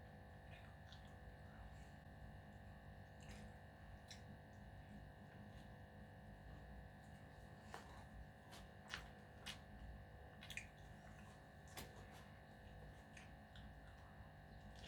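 Faint eating sounds: a scattering of small clicks and smacks from chewing, most of them in the middle of the stretch, over a steady electrical hum.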